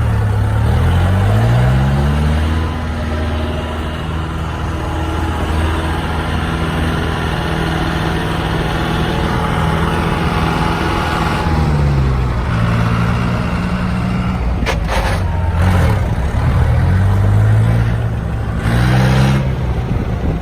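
International tractor engine revving up and settling back down several times, its pitch rising and falling in slow swells, with a few short sharp noises in the second half.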